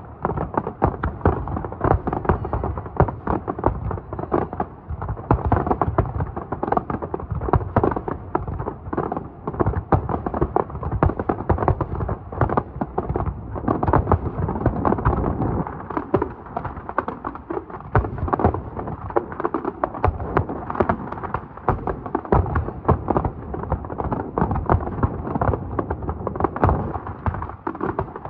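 Fireworks display going off in a dense, unbroken run of shell bursts and crackling, many reports a second.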